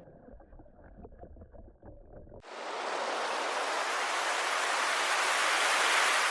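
A faint muffled stretch, then about two and a half seconds in a steady rush of wind and water noise cuts in suddenly and holds.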